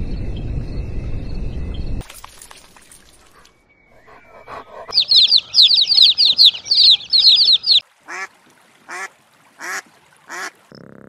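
Animal calls: a loud rushing noise for the first two seconds, then a fast run of high, falling chirps, then four separate duck quacks about a second apart.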